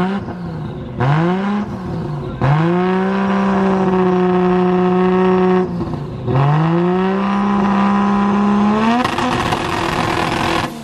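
Modified BMW E36's engine revved hard while stationary: two quick blips, then held high and steady for about three seconds, let down, and brought back up and held steady again for about three seconds before falling away at the end.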